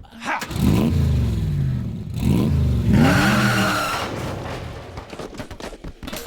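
Cartoon car engine revving up hard twice, each rev climbing and dropping in pitch, then fading away as the car pulls off.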